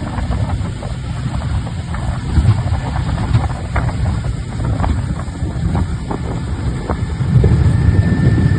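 Suzuki DF40A three-cylinder four-stroke outboard running under way after pulling off, with wind buffeting the microphone. It gets louder near the end.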